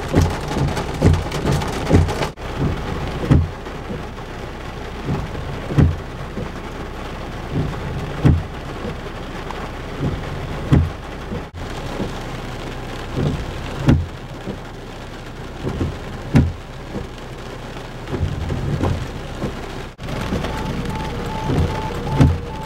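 Steady rain with short, low thunder-like thumps every second or two. The sound drops out briefly three times, and steady musical tones come in near the end.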